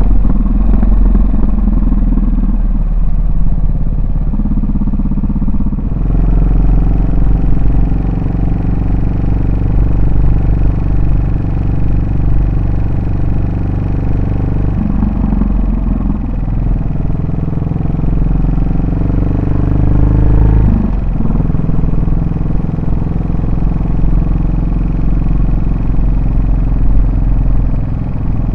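Yamaha SR400's air-cooled single-cylinder engine and exhaust while riding, a steady, loud engine note. It changes about six seconds in and again briefly around fifteen and twenty-one seconds in, as the throttle and gears change.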